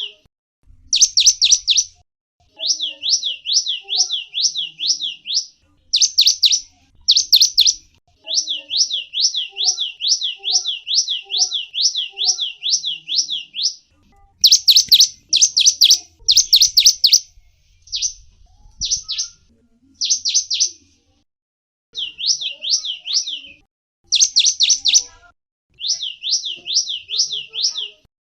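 A gelatik wingko (cinereous tit) singing: bouts of rapid, evenly repeated high notes, about four to five a second, broken by short pauses and by several clusters of sharper, louder notes.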